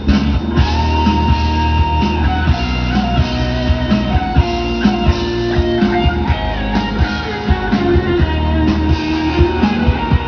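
Rock band playing an instrumental passage with no vocals: a lead guitar plays a melodic line with bent notes over a steady drum beat and bass.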